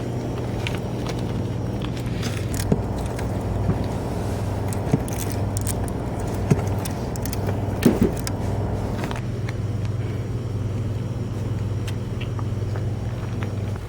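Steady low engine and road hum, as inside a moving car, with a few scattered sharp clicks and a short cluster of small rattles about eight seconds in.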